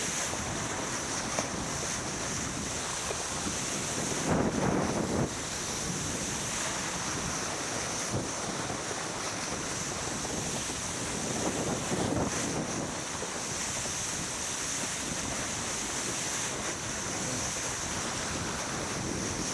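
Wind on the microphone and water rushing along a sailboat's hull while under way, with louder surges about four seconds in and again near twelve seconds.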